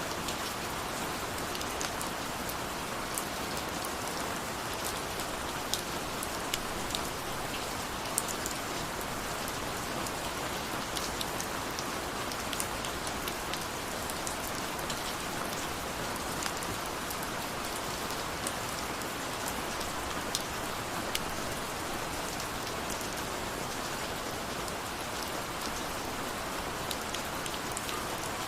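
Steady rain falling, an even hiss with scattered sharper drop impacts and no thunder.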